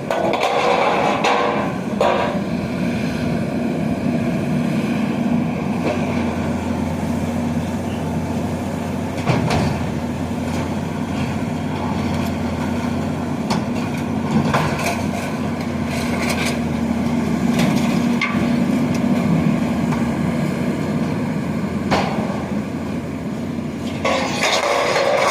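Heavy diesel demolition machinery running steadily under load, with irregular crashes, knocks and crunching of debris being broken and dropped.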